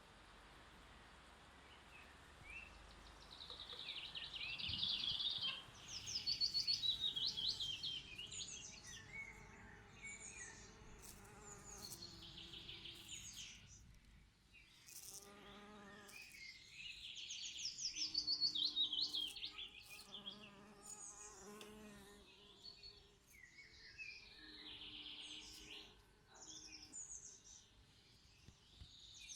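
Songbirds singing repeated quick trilled and chirping phrases, with bees buzzing in short spells in the second half.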